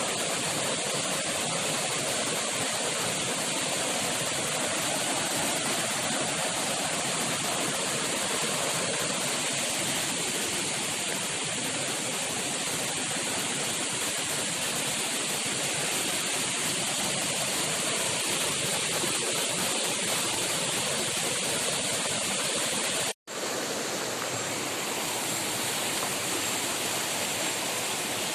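Steady rushing noise of flowing water, like a forest stream or small waterfall. It cuts out abruptly for an instant about 23 seconds in, then carries on.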